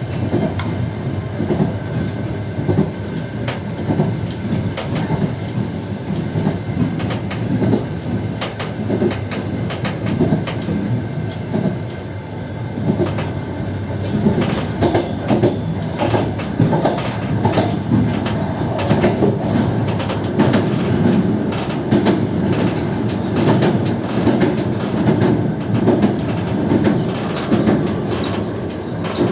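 Passenger coach running along the track, heard from its open window: a steady rumble of wheels on rail with rapid clicking and clattering. About halfway through, the coach rolls onto a river bridge and the clatter becomes denser and louder.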